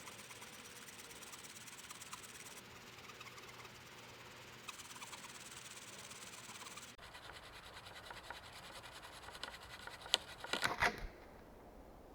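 Hand saw rasping through wood in a steady run of strokes; the sound changes abruptly partway through. A quick cluster of sharp knocks and clicks, the loudest part, follows near the end.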